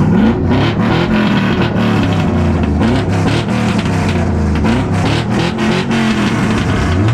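Car engine revving hard again and again, its pitch sweeping up sharply at the start and then rising and falling repeatedly, with another climb near the end.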